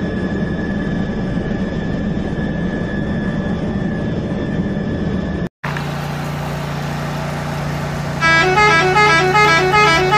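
Battery-powered toy helicopter's motor whirring steadily as its rotor spins, cutting off suddenly about five and a half seconds in. Then a steady hum, and from about eight seconds in a quick electronic tune of beeping notes like a toy's sound chip.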